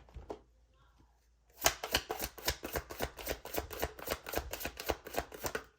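A tarot deck shuffled by hand: a quick, even run of card slaps and clicks, about seven a second, starting about a second and a half in.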